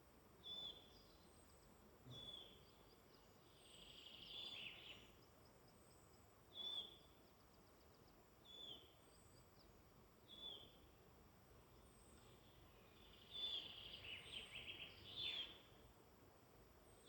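Faint woodland birdsong. One bird repeats a short high call every two seconds or so. Twice, around four seconds in and again near the end, a longer, busier song phrase with rapid trills comes in.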